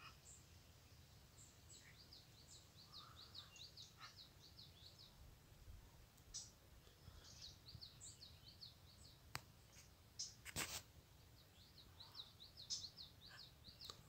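A small songbird singing faintly in three runs of quick, repeated high chirps, over a low steady outdoor rumble. Two sharp clicks, the second louder, come about two-thirds of the way through.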